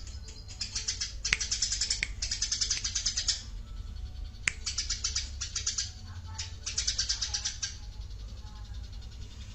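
Small songbirds singing rapid, high, chattering trills in several short bursts that stop about three-quarters of the way through, over a steady low hum.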